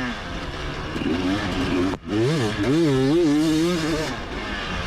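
Motocross bike engine revving up and down under the rider's throttle, the pitch rising and falling several times. The sound drops out sharply for an instant about two seconds in, then comes back with quick revs.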